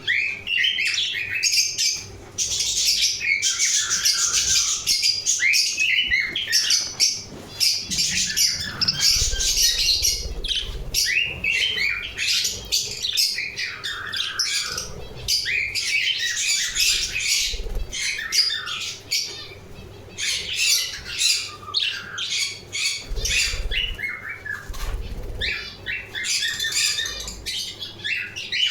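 Several budgerigars chirping and chattering without pause, a dense mix of short warbles and squawks, with a few low thumps that fit wing flapping.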